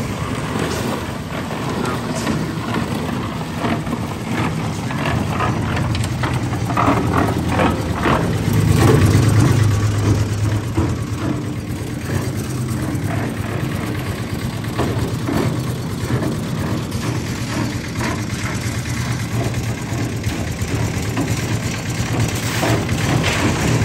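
An engine running steadily with a low hum that swells about nine seconds in, mixed with scattered knocks and clanks of building work.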